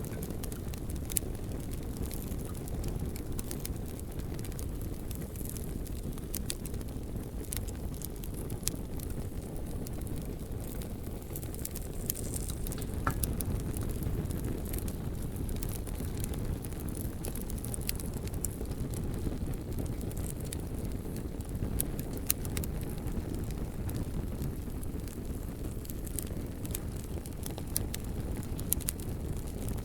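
Bonfire of burning logs: a steady low rush of flame with sharp, irregular crackles and pops from the wood.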